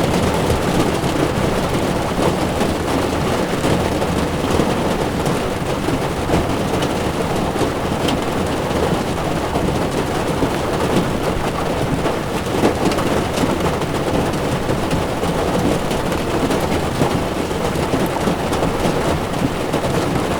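Heavy rain falling on a moving car's windshield, a dense, steady patter of drop hits, with the tyres' wet road noise underneath.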